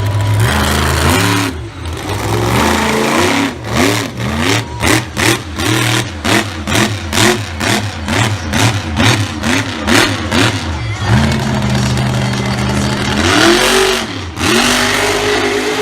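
Monster truck engine revved in quick repeated blips, about two a second, then held at a steady high rev before being revved up again near the end.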